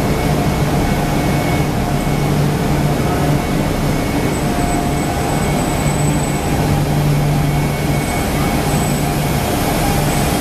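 E1 series double-decker Shinkansen pulling away from a station platform, its traction equipment giving a steady low hum with thin higher tones over it; a further tone joins about halfway through as the train gathers speed.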